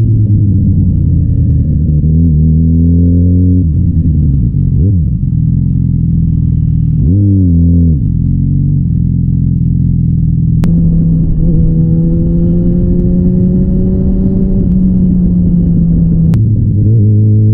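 Yamaha XJ6N's 600 cc inline-four engine under way, its pitch climbing under acceleration, dropping sharply and climbing again several times, with a long steady pull in the second half. Two sharp clicks stand out in the second half.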